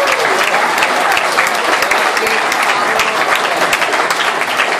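Concert audience applauding, with dense clapping and scattered voices calling out.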